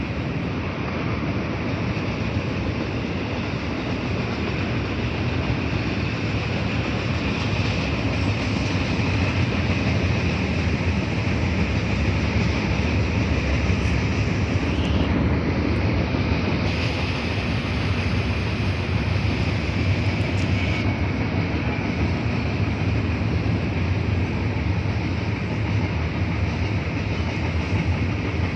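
Train rolling past with a steady rumble of wheels on rails. A higher hiss joins in for a few seconds about two-thirds of the way through.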